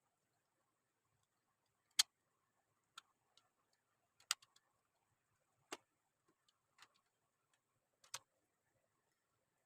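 Sharp little clicks of plastic Lego pieces being handled and snapped together, about six at uneven intervals, the loudest about two seconds in.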